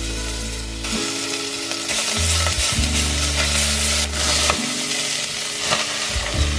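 Minced garlic and ginger sizzling in a stainless steel pot, stirred and scraped with a spatula; chopped onion and celery are tipped in near the end. Background music with low bass notes plays underneath.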